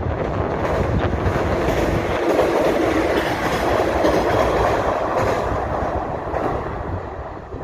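Electric passenger train running across a steel girder railway bridge, with a steady rumbling clatter of wheels and bridge deck that swells through the middle and fades near the end as the train moves away.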